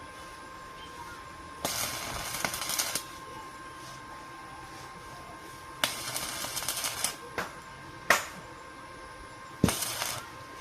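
Arc welding on metal framing: three short bursts of crackling as welds are struck, each lasting about one to one and a half seconds, with a couple of sharp clicks between them.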